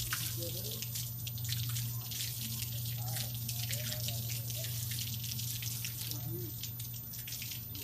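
Water spraying and spattering onto a dog being showered, a steady hiss full of small splashes, with a steady low hum underneath.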